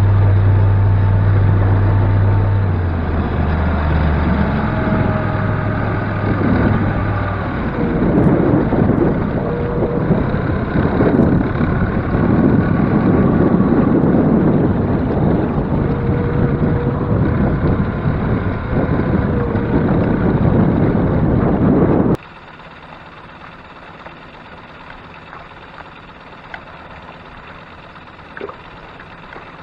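Boat under way: a motor's low hum with wind rushing over the microphone, which drops suddenly to a quiet steady hiss about 22 seconds in.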